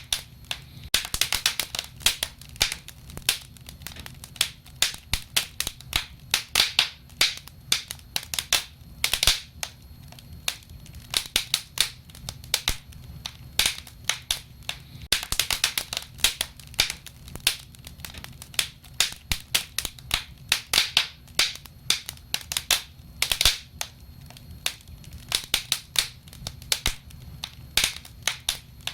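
Wood fire crackling: dense sharp pops and snaps that come in clusters every second or so, over a steady low rumble.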